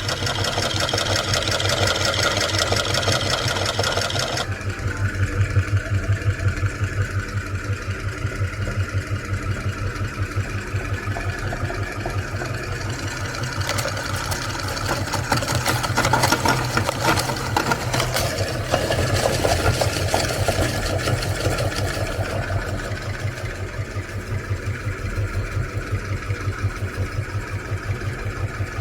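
Electric meat grinder running steadily, its motor giving a fast pulsing hum, with a stretch of crackling around the middle as the cookies are crushed through the auger.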